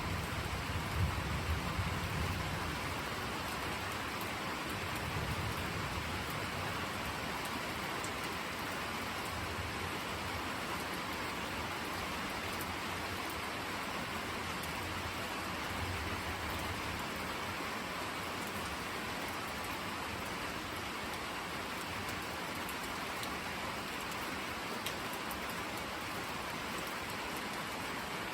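Steady rain falling and spattering on surfaces. A deep thunder rumble dies away in the first couple of seconds, and fainter low rumbles swell briefly later.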